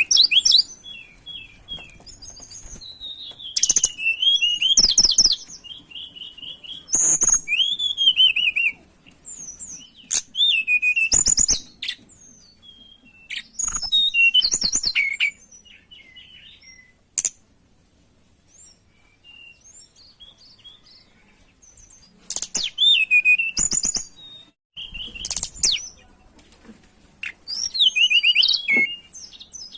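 Tledekan gunung singing in short, rapid phrases of high, sweeping whistled notes, a few seconds apart, with a longer pause in the middle.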